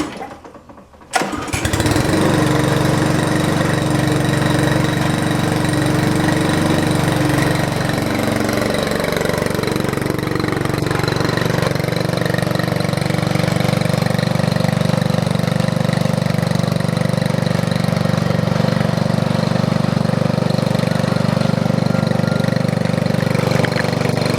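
A 2010 Briggs & Stratton 3.5 HP single-cylinder lawnmower engine on a homemade garden tractor is pull-started. It catches about a second in, then runs steadily and very loud.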